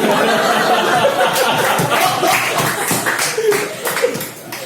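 Audience in a room laughing and clapping, starting all at once and dying down near the end.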